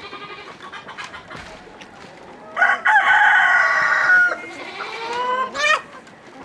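A rooster crowing once, a long loud call starting a couple of seconds in and ending on a rising note, with quieter chicken clucking before it.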